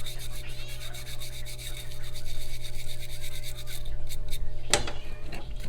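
Rapid back-and-forth scrubbing strokes on the small metal linkage cover of an International TD18 carburetor as it is cleaned, over a steady low hum, with one sharp knock a little under five seconds in.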